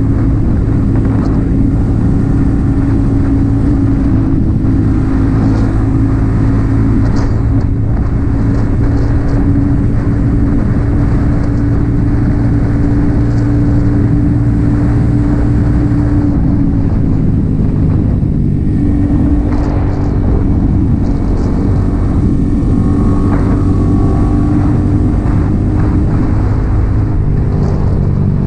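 Yamaha XSR 155's single-cylinder engine running through an aftermarket M4 exhaust while riding at a steady pace. Its note dips and shifts briefly a little past halfway, then settles again.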